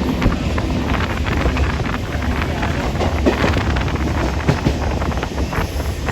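Wind buffeting the microphone over a steady low rumble, with scattered short knocks throughout.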